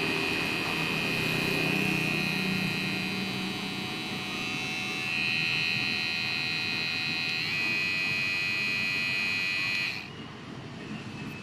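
Kemei 1990 electric shaver running with a steady high buzzing whine, its pitch shifting slightly a couple of times, then switched off about ten seconds in.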